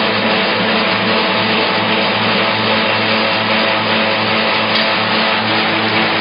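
CBJ-5 hammer-handle making machine running: a steady motor hum under a continuous dense cutting noise from the wood being shaped.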